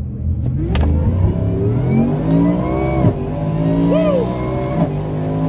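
A car's engine accelerating hard at full throttle down a drag strip after a sharp crack near the start. Its pitch climbs steeply, then drops suddenly at an upshift about three seconds in, then climbs again to another shift near the end.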